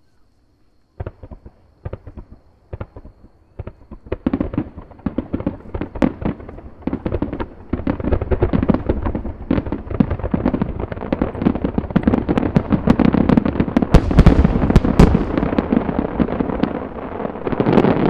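Aerial fireworks display. A few sharp cracks start about a second in and build into a dense barrage of bangs and crackling that grows louder toward the end.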